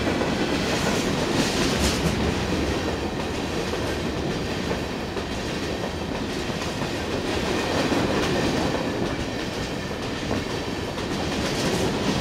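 Freight train of covered hopper cars passing close by at speed: a steady rolling rumble of steel wheels on rail that swells and eases as the wheel sets go by.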